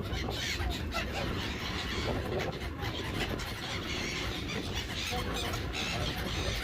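A flock of gulls calling at once: many short, squealing cries overlapping into a dense, continuous clamour.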